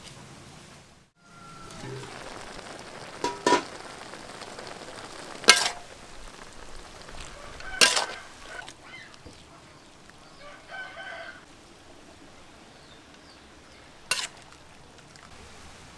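Beef and peperomia pellucida frying with a steady sizzle in an aluminium wok over a wood fire, a metal spatula striking the pan sharply four times as it stirs. A chicken clucks briefly about two-thirds of the way through.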